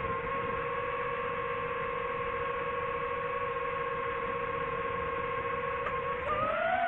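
DJI FPV drone's motors and propellers whining at a steady pitch, then gliding up in pitch about six seconds in as they spin faster.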